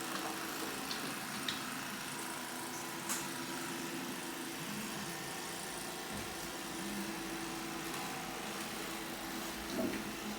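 Vacuum cleaner motor running steadily with an even hum, and a couple of faint clicks in the first few seconds.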